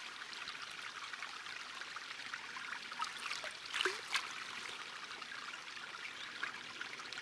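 Crackling rustle of forest soil and leaf litter being dug and handled while searching a hole for a detected target, with a few louder scrapes about three to four seconds in.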